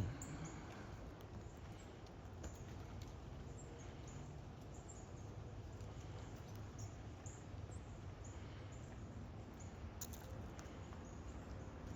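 Faint outdoor ambience: a low steady background rumble with scattered small, high chirps and ticks, and one brief click about ten seconds in.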